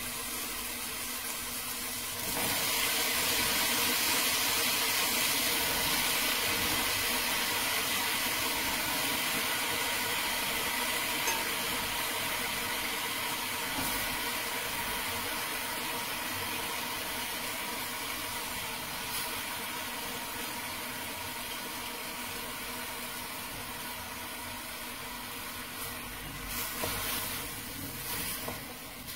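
Potatoes and pancetta frying in hot oil in a pan, a steady sizzle that gets louder about two seconds in and slowly dies down. A few short knocks near the end.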